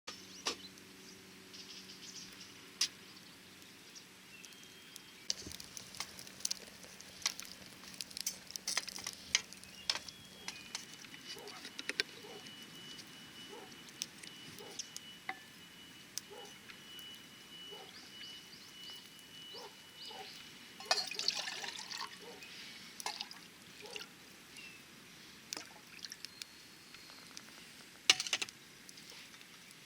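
Camp cooking sounds: water pouring and trickling, with scattered clicks and clinks of metal cookware being handled. A thin, faint, steady high tone runs through the middle for about ten seconds.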